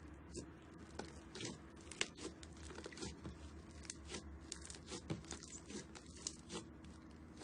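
Slime being squeezed and pressed by hand, giving irregular crackling and popping clicks.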